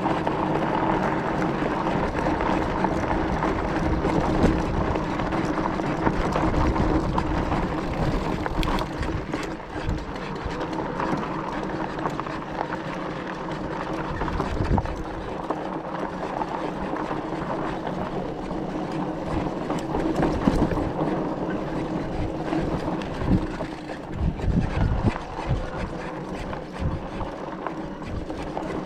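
E-bike ridden over a rough dirt road: a steady motor hum under wind noise on the microphone and the rumble of the tyres. Jolts and knocks from the bumps come through, thickest a few seconds before the end.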